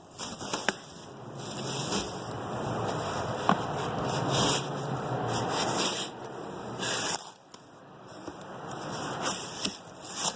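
Cardboard and packaging rubbing and scraping as a wheel box is opened and the wrapping pulled off, with a few sharp clicks and a brief lull about seven seconds in.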